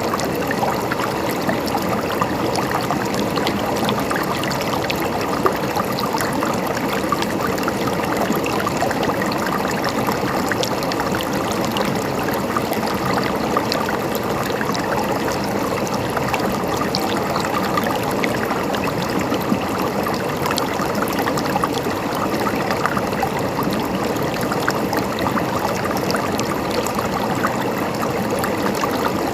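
River water flowing steadily over stones, a constant babbling and gurgling rush with fine trickling splashes.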